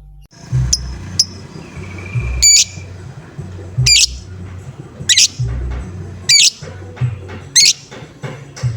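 Lovebird giving loud, shrill squawking calls, five in a row about a second apart, with softer chirps before them and a low rumble underneath.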